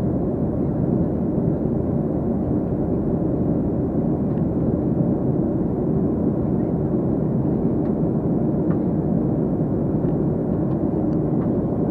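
Steady engine and air noise inside the cabin of a Boeing 737-300 with its CFM56-3 turbofans running, a dense even rumble with no change in level.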